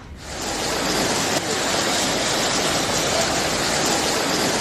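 Steady rush of fast-flowing floodwater: an even, unbroken roar of water that comes in within the first half-second and holds level.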